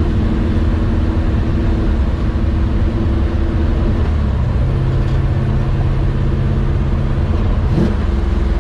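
A vehicle engine running steadily under a heavy low rumble. Its pitch shifts to a lower steady note about four seconds in and rises briefly near the end.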